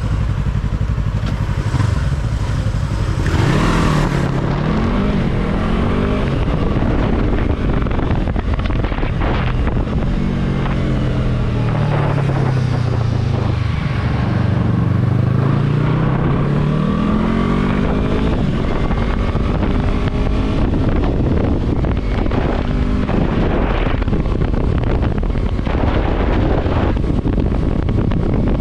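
Yamaha YZF-R3 parallel-twin motorcycle engine heard on the move. The revs climb briefly a few seconds in, drop away through the middle as it slows, then build again, with wind rushing over the microphone.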